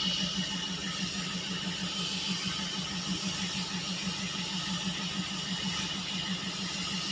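Paddy-drying oven machinery running steadily: a low hum that pulses rapidly and evenly, over a steady hiss.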